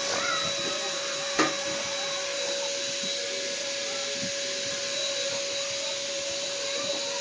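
A steady whirring hiss with a constant hum running under it, and a single sharp knock about a second and a half in.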